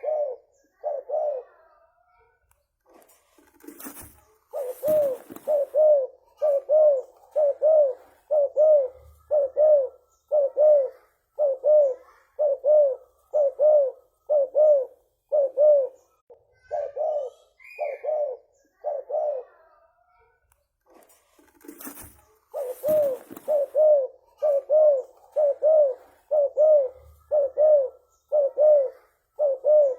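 Spotted dove cooing, a long run of short low coos at about two a second, broken twice by brief pauses. A sharp rustling clatter comes just as each run begins.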